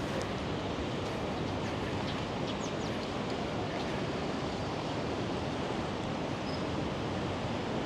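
Steady outdoor rushing noise at an even level, with a few faint high chirps in the first half.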